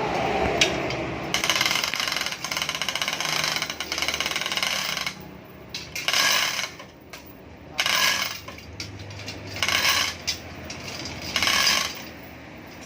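A power tool running in a long pulsing stretch of about four seconds, then in four short bursts, with metallic clinking.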